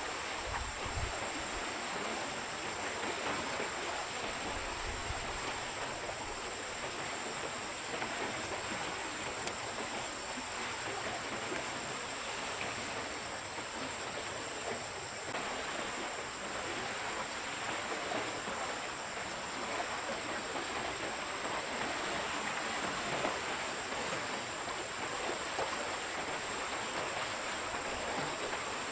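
Forest stream flowing, a steady, even rushing of water, with a thin high steady whine above it.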